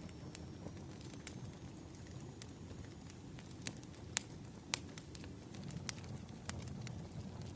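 Wood fire crackling: irregular sharp pops and snaps, the loudest two a little past the middle, over a steady low rumble of burning logs.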